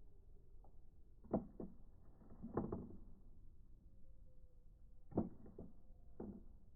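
Several light knocks and clacks of hard objects being handled, in small clusters: two a little over a second in, two more near the middle, and a cluster near the end.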